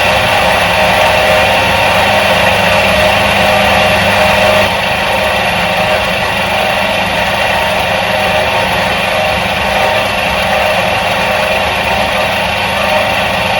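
Motor of a 1977 Soviet washing machine running steadily: a continuous, even hum with several steady tones layered over it.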